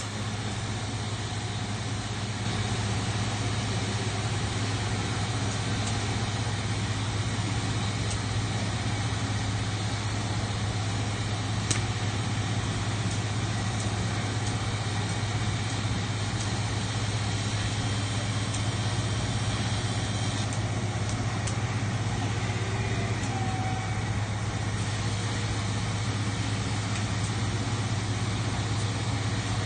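Steady running noise of factory machinery, with a strong low electrical hum and an even hiss over it and a few faint clicks.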